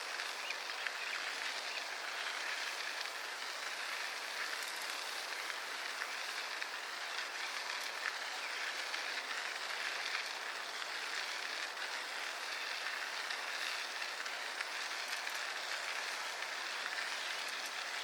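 Steady hiss of a bicycle in motion, tyres rolling on the path with air rushing past, with small scattered clicks.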